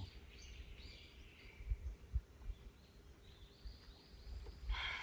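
Quiet outdoor forest ambience with faint bird chirps, a few dull low bumps about two seconds in, and a brief louder rustle-like burst near the end.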